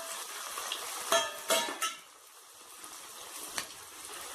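Hot oil sizzling in a kadhai as pieces of steamed chana dal snack deep-fry. A metal utensil clinks against the pan a few times a little over a second in, and there is one more click later.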